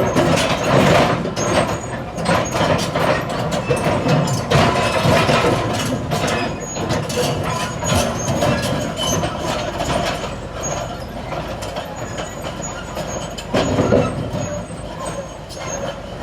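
Heavy diesel earthmoving machinery running steadily, with frequent metallic clanks and rattles and a brief louder surge near the end.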